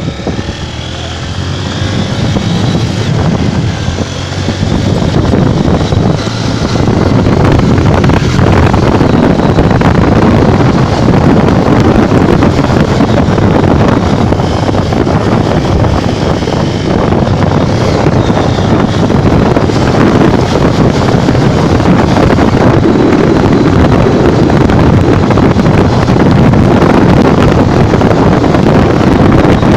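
Honda Bros 150 motorcycle's single-cylinder engine running on the road, speeding up over the first several seconds and then holding a steady speed, with wind rushing over the microphone.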